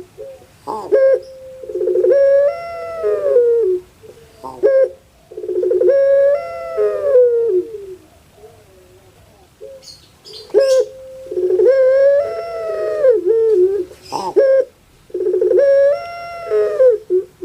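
Puter pelung, a ringneck dove (Streptopelia risoria) kept for its song, cooing: about four long, rolling calls of roughly two seconds each, repeated with short pauses between them.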